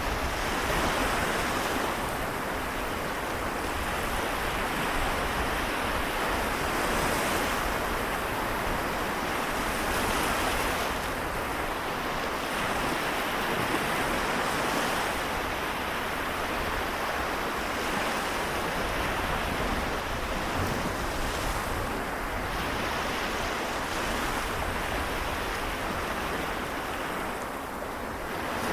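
Small waves of the Seto Inland Sea washing in, a continuous wash that rises and eases every few seconds.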